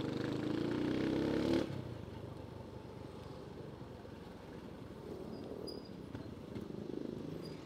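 Motorcycle engine revving up as the bike accelerates, its pitch rising for about a second and a half, then cutting back suddenly to quieter, steadier running.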